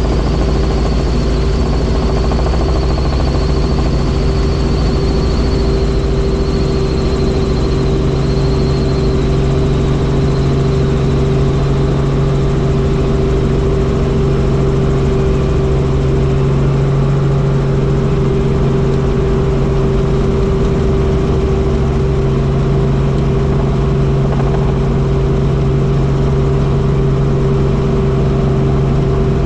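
Helicopter running with a steady, loud drone of rotor and engine, and a high turbine whine that fades away over the first ten seconds or so.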